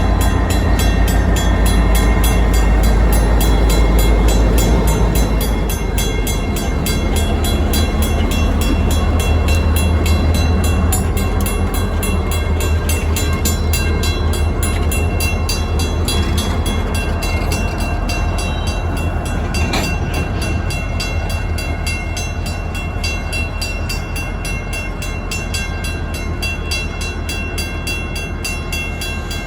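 Diesel freight locomotives rumbling through a grade crossing, loudest in the first few seconds, while the crossing's WCH first-generation mechanical bell rings with quick, even strokes.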